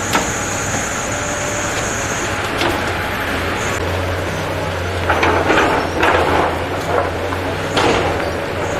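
An engine running steadily with a low hum, with a few louder, ragged noisy bursts about five to six seconds in and again near the end.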